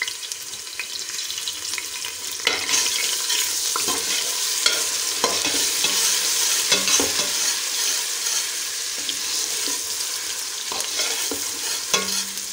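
Ginger-garlic paste and browned onions sizzling in hot oil in a steel pot, stirred with a metal slotted spoon that clicks and scrapes against the pan. The sizzle grows louder about two and a half seconds in.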